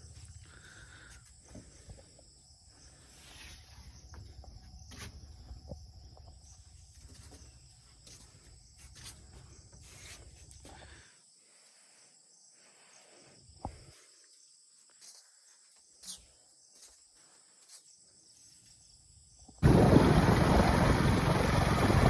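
Insects trilling steadily at two high pitches, with a faint low rumble and scattered small clicks and knocks. A sudden loud rushing noise cuts in near the end.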